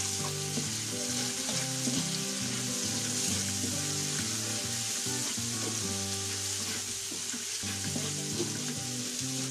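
Sliced onions and garlic sizzling steadily in hot oil in a wide metal wok as they are sautéed, with the light scrape of a spatula stirring them.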